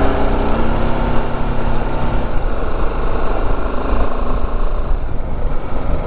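BMW G310GS motorcycle's 313 cc single-cylinder engine running steadily as the bike is ridden along a hill road.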